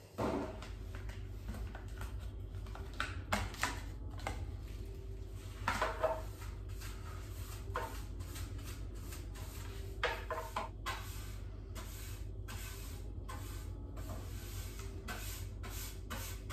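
Household tidying: scattered knocks and clatters of things being handled and put away, some in quick clusters, over a steady low hum.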